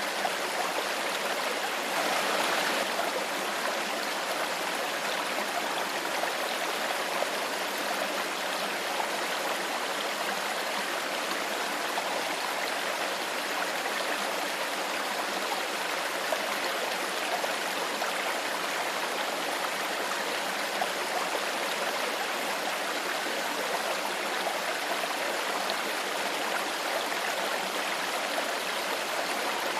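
Stream water flowing and babbling steadily, with a slightly louder surge about two seconds in.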